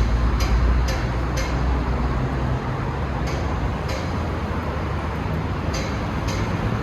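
Motor vehicle running: a steady low rumble that eases slightly a couple of seconds in, with a few sharp clicks scattered through it.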